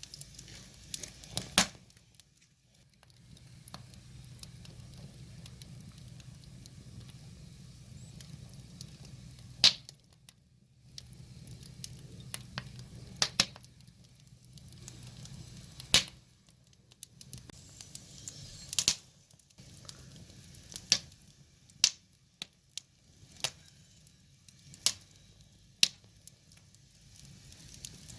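Wood fire burning, crackling with sharp, irregular pops from the burning logs, about a dozen over the stretch, over a soft hiss. A low steady rumble runs under the first half.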